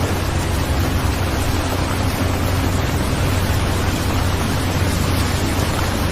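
Steady rain, a dense, even hiss with a low rumble underneath.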